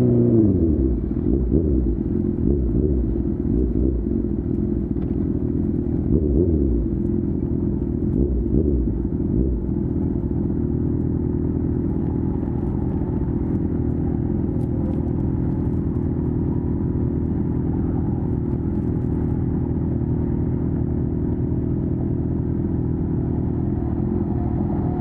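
Honda CB1000R inline-four through a full Akrapovic exhaust, its revs falling as the bike slows. It takes a few small throttle changes over the next several seconds, then settles to a steady low idle from about ten seconds in.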